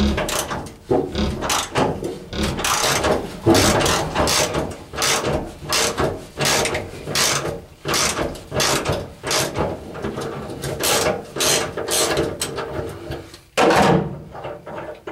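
A grooved 1/2-inch bolt, used as a makeshift thread chaser, being wrenched through rusty cab mount threads in repeated scraping strokes, about one and a half a second. The bolt is binding tight in the threads. One last loud stroke comes near the end.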